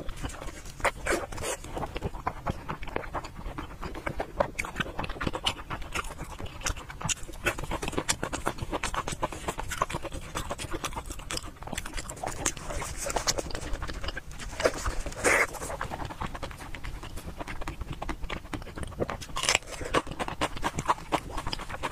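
Close-miked wet chewing and lip-smacking of a person eating fatty braised pork belly: a dense, irregular run of smacks and sticky mouth clicks without pause.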